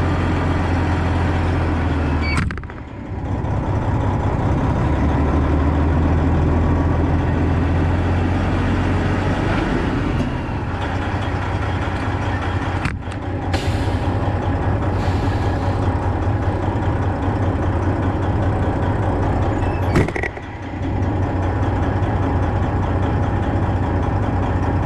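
Semi truck running, with a steady low engine hum and road noise, briefly broken about two and a half, thirteen and twenty seconds in.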